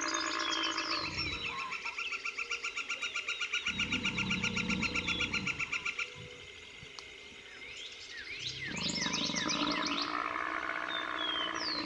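Night bush chorus of chirping and trilling birds or insects, with a fast, evenly pulsing trill for the first half and scattered sharp chirps. Low rumbling animal sound comes in twice, about four and nine seconds in.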